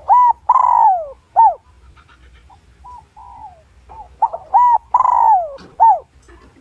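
Spotted dove cooing a lure call: two loud phrases about four seconds apart, each a few short coos with one long, falling coo, and softer coos in between.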